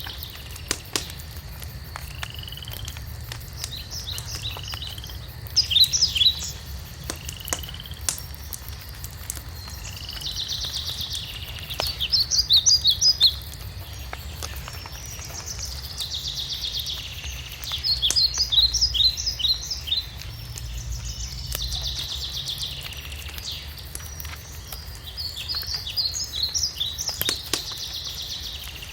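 Birdsong, with a phrase of short rising whistles and a fast cluster of trilled notes repeated about every six to seven seconds. A wood fire crackles with scattered small pops underneath.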